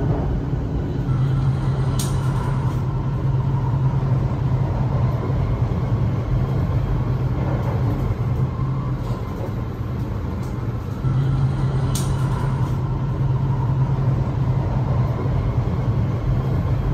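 Joetsu Shinkansen train running at speed, heard from inside the car: a steady rumble and hiss with a low hum that comes and goes, and a sharp click twice, about ten seconds apart.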